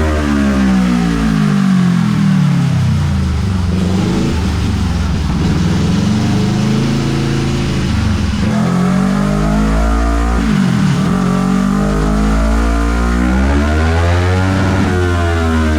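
2014 Kawasaki ER-6N 650cc parallel-twin engine revving on a dyno through a gutted exhaust with a custom midpipe. Its pitch rises and falls repeatedly, dropping low twice in the middle and climbing again near the end.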